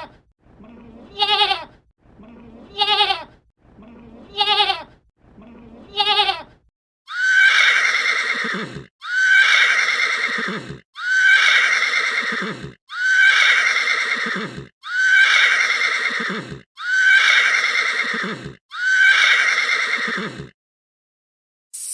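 A sheep bleating about every second and a half, short wavering calls, then a horse whinnying seven times in a row from about seven seconds in. Each whinny is longer and louder than the bleats and falls in pitch.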